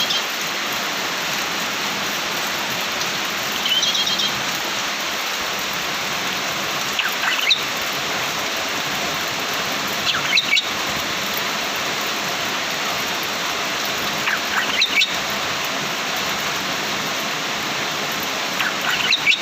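A songbird giving short, high chirping calls about five times, every three to four seconds, over a steady hiss.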